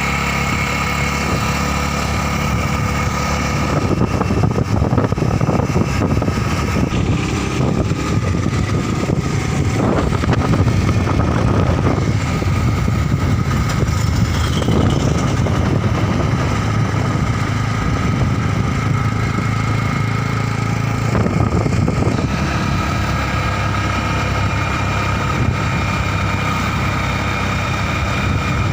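Motorcycle engine running steadily, with a rougher, noisier stretch through the middle.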